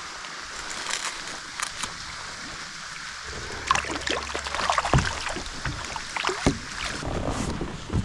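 Scattered knocks, clicks and rustling of handling in a fishing kayak, over a steady outdoor hiss, busiest in the middle.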